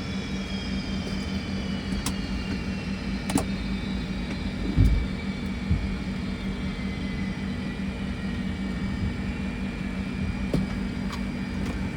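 Fokker 100's Rolls-Royce Tay turbofan spooling down after shutdown, its high whines falling slowly in pitch over a steady cockpit hum. A few switch clicks and one low thump about five seconds in.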